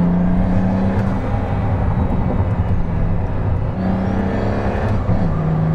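Pagani Huayra Roadster BC's twin-turbo V12 running in sport mode, heard from inside the cabin. Its steady note steps down and back up a couple of times.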